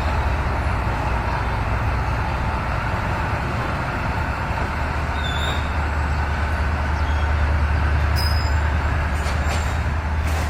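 D19E diesel-electric locomotive running steadily with a deep engine hum under a broad rumble, with a few brief high squeaks in the second half.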